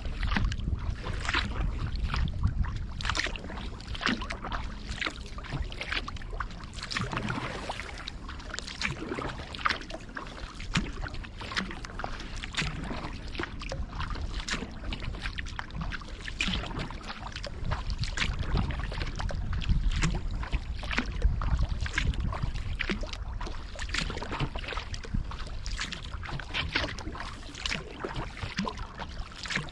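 Kayak paddle strokes through river water: the blades dip and pull, with many small splashes and drips running off the blades. A steady low rumble runs underneath.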